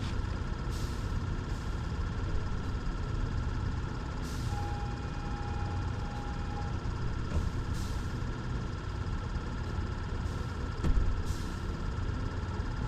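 Steady low mechanical drone of running machinery or an engine, with a short steady tone about a third of the way in.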